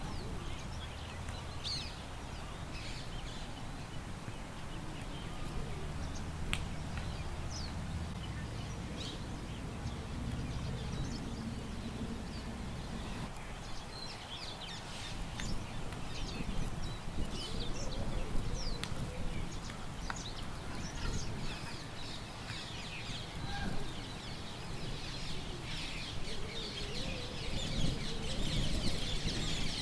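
Small birds chirping and twittering in short, scattered calls, growing busier in the last few seconds, over a steady low rumble of wind.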